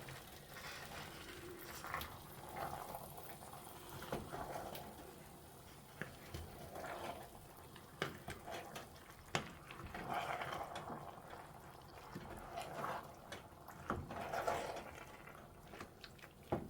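Liquid sloshing softly in a pot of soup as chickpeas are stirred in, with several sharp clinks of a utensil against the pot.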